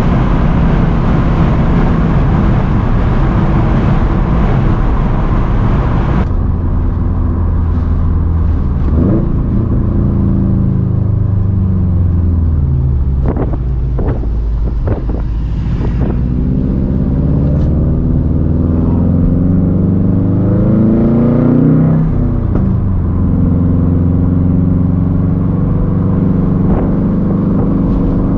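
2013 Subaru WRX STI's turbocharged 2.5-litre flat-four running through a titanium Tomei Expreme Ti turbo-back exhaust and a catless downpipe, while the car is driven. The engine note climbs and drops several times as it pulls through the gears, with a few sharp cracks about halfway through.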